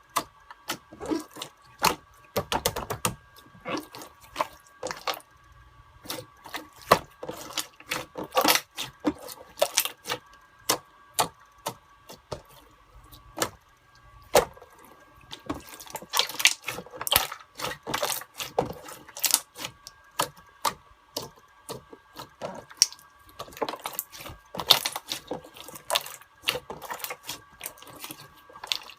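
Irregular sharp clicks and taps of small hard objects, coming thickly in stretches, over a faint steady tone.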